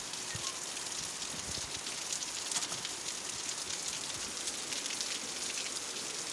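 Heavy rain pouring down, a steady hiss full of small drop taps.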